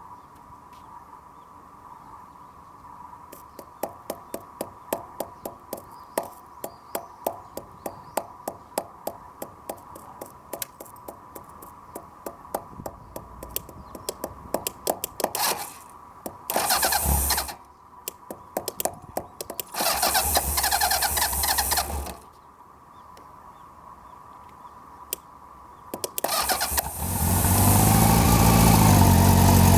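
A rubber mallet taps the starter motor of a Honda CB750's air-cooled inline-four, a few sharp knocks a second for about twelve seconds, to free a starter that won't turn, suspected to be a poor contact inside the motor. The starter then cranks in two short bursts, and near the end the engine catches and runs.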